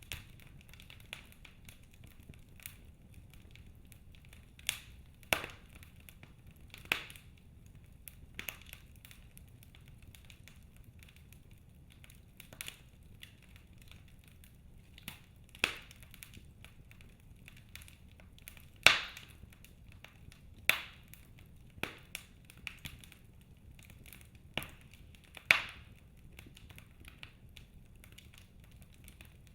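Wood fire in a fireplace crackling, with sharp pops at irregular intervals of a second or a few seconds over a low steady rumble. A few pops are much louder than the rest, the loudest about two-thirds of the way through.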